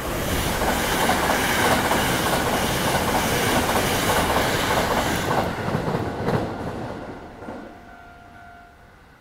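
Hankyu 1000 series electric train passing through a station at speed without stopping: a loud steady rush of wheels on rail. It fades as the last cars go by, with a few sharp clacks over the rail joints before it dies away.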